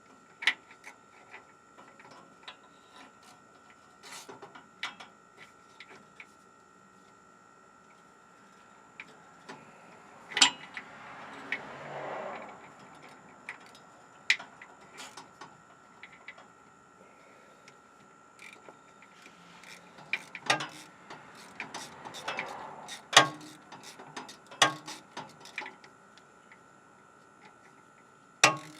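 Scattered metallic clicks, clinks and knocks of a wrench and ratchet on the starter mounting bolts under a 1994 Ford F350, with two longer stretches of scraping and rustling about a third and two-thirds of the way through.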